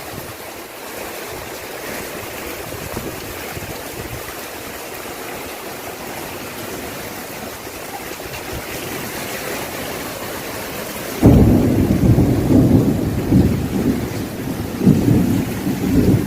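Steady hiss of rain falling. About eleven seconds in, a loud, uneven low rumble starts suddenly and keeps going.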